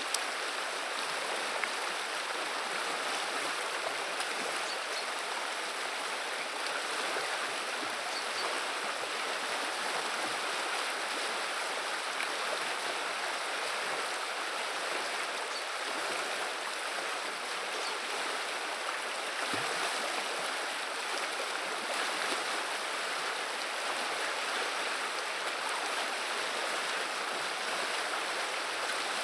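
Running river water babbling steadily over its bed.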